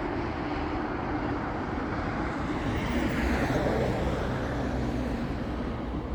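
Freight train of center-flow covered hopper cars rolling past, a steady rumble and rattle of wheels on rail.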